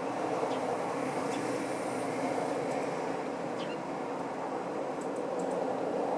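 Steady rumble of vehicle or train noise, with a few faint, brief sparrow chirps over it.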